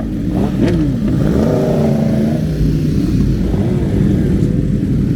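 Sport motorcycle engines revving and accelerating as the bikes pull away. The pitch rises and falls several times.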